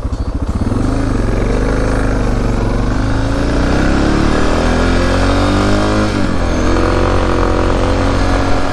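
Suzuki DR650's single-cylinder engine idling with an even thump, then pulling away about half a second in and accelerating hard. The pitch rises in each gear and drops at two upshifts.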